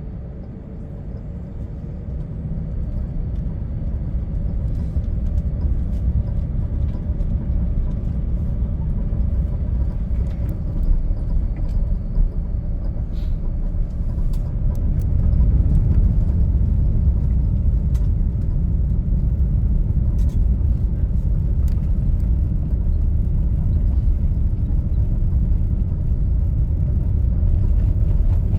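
Cabin noise of a British Airways Airbus A380 on its take-off run: a steady low rumble from the Rolls-Royce Trent 900 engines and the roll down the runway. It grows louder over the first few seconds and again about halfway through as the aircraft gathers speed.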